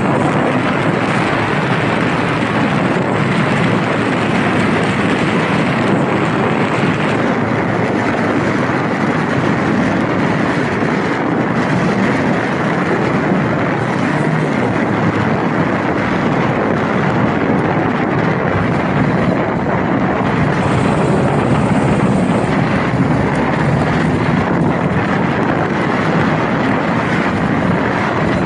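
Honda Rebel motorcycle being ridden: the engine runs steadily under a dense rush of road and wind noise, with no marked revving or stops.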